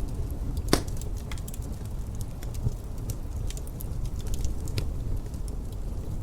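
Wood fire crackling, with scattered sharp pops and one louder pop just under a second in, over a steady low wind rumble.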